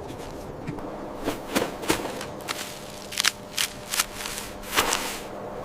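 A series of about eight sharp, irregularly spaced snaps or crunches over a faint steady hum.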